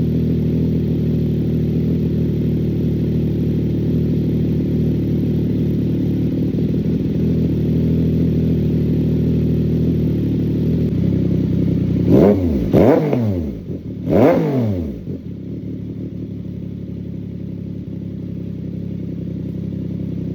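CFMoto 675SS inline-three engine idling steadily through an aftermarket Team MSC exhaust with the baffle in, still warming up after a cold start. A little past halfway it is blipped three times in quick succession, each rev rising and falling fast, then it settles back to a slightly quieter idle.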